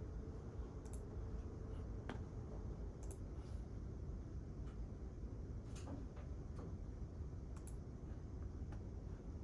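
Quiet reading-room ambience: a steady low hum with scattered, irregular light clicks and taps, such as keyboard typing or small objects handled on a desk.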